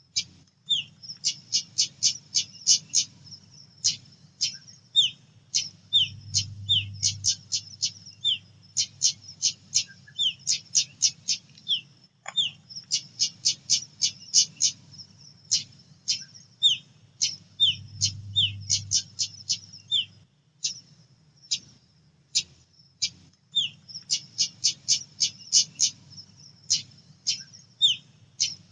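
Female pied bushchat calling: rapid runs of short, sharp, high chips, several a second in bouts, with short falling notes mixed in. A faint low hum lies underneath.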